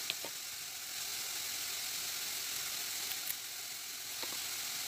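Sliced bitter gourd frying in a pan on a gas burner: a steady sizzle with a few small crackles here and there.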